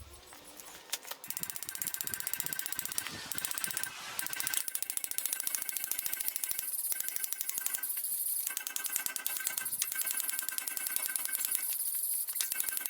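Wire wheel scrubbing steel, cleaning metal back to bare for welding: a dense, fast rasping crackle that runs in spells with short pauses.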